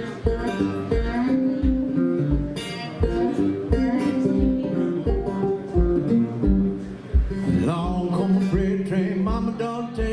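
Acoustic guitar playing a country-blues accompaniment, with a steady low thump about twice a second keeping the beat.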